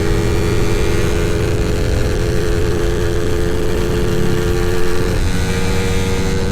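Two-stroke motorcycle engine running at speed on the road, a steady engine note that shifts pitch about five seconds in.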